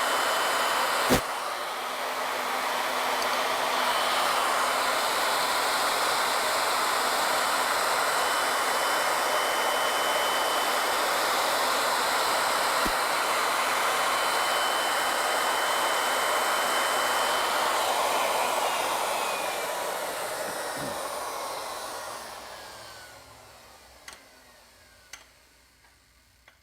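Wood router on an ornamental mill running steadily with a high whine while it cuts spiral flutes in a wooden table leg. About two-thirds of the way through it is switched off and spins down with a falling pitch to a stop, followed by a few small clicks.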